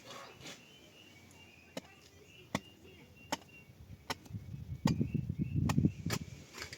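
Hand tool striking in a steady rhythm, chopping or digging, one sharp blow about every 0.8 s, with a louder low scraping rumble in the second half.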